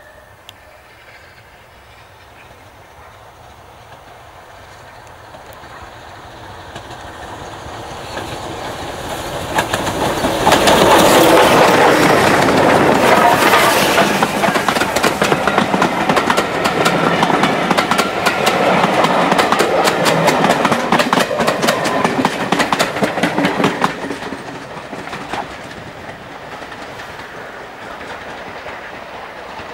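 Steam locomotive hauling a passenger train past close by. It grows louder as it approaches, then the coaches' wheels clatter rapidly over the rail joints as they pass, and the sound falls away after about 24 seconds.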